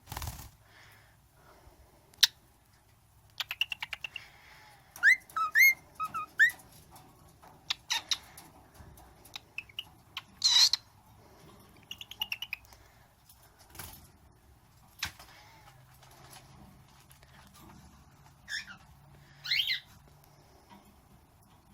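Cockatiel whistling short gliding notes between sharp kissing-like smacks and clicks, in scattered bouts, with one fast run of about ten clicks a second a few seconds in.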